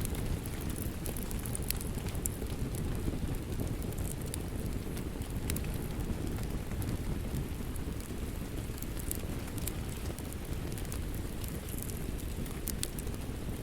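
Wood fire crackling in a fireplace: a steady low rumble of burning with scattered sharp pops and snaps throughout.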